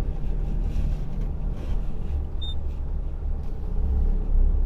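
Fully loaded truck's diesel engine running with a steady low rumble as it drives slowly, growing louder about four seconds in.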